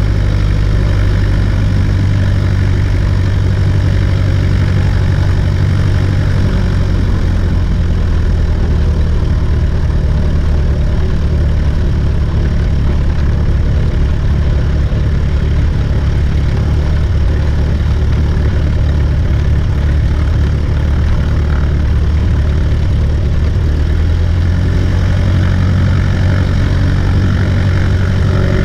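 Cessna 140A's piston engine and propeller running steadily in flight: a loud, even drone whose pitch shifts slightly about a quarter of the way through and again near the end.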